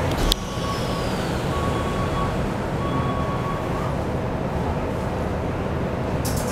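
Inside a Keikyu New 1000 series commuter car: a sharp clunk about a third of a second in, as the doors finish closing, then a steady low rumble of the train. A thin on-off tone sounds during the first few seconds.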